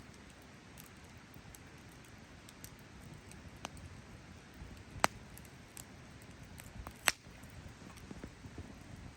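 Burning wood in a campfire crackling, with scattered small ticks and two sharp pops, about five and seven seconds in.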